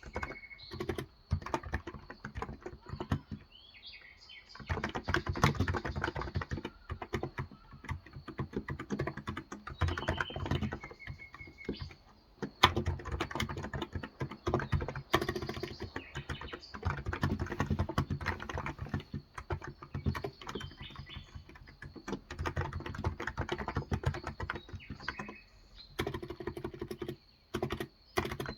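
Continuous typing on a Cox Endeavor tenkeyless keyboard with 35 g electrostatic capacitive (Topre-style) switches, in runs of keystrokes with brief pauses. Birds chirp now and then in the background.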